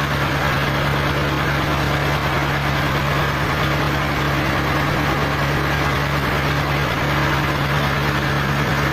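Sawmill machinery running at a constant speed, a steady low hum with no changes.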